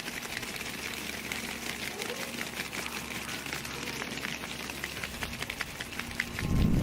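Rapid, irregular light clicking and tapping over a steady low hum, with a louder low rumble near the end.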